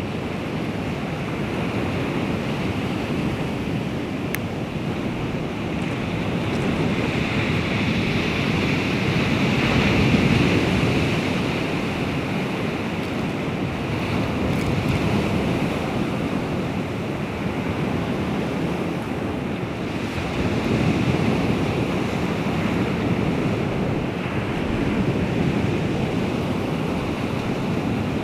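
Baltic Sea waves washing onto the shore, the surf swelling and easing every several seconds, loudest about ten seconds in.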